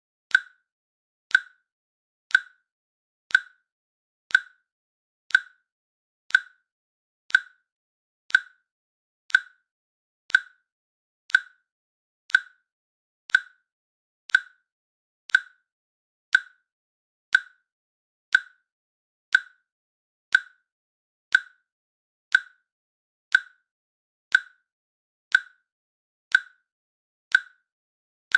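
Timer click sound playing once every second: short, sharp identical clicks with silence between them.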